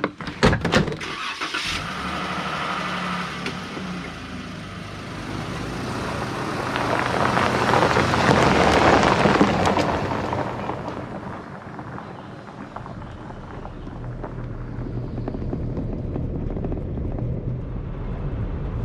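Jeep engine and road noise while driving, swelling to a peak about eight seconds in and easing off again, with a few sharp knocks at the start.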